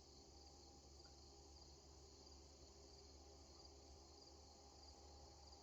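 Near silence, with crickets chirping faintly and steadily.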